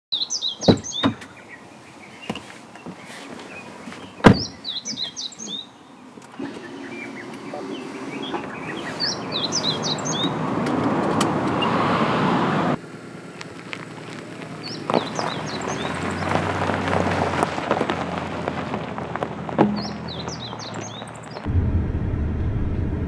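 A songbird repeats the same short phrase of quick high chirps about every five seconds, over a rushing noise that swells and changes abruptly twice. A few sharp knocks come in the first few seconds.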